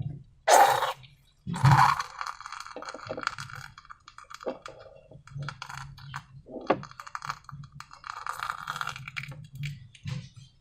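Close handling of slime and balloons: irregular crackling, clicking and squishing, with two louder sudden sounds in the first two seconds.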